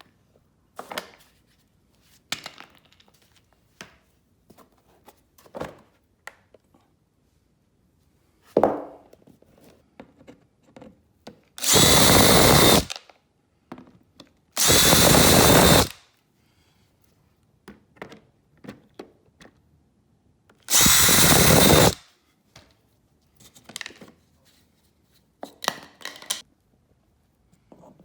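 A power drill whirring in three short bursts of about a second each, spread through the middle of the stretch. Small clicks and knocks of parts being handled come in between.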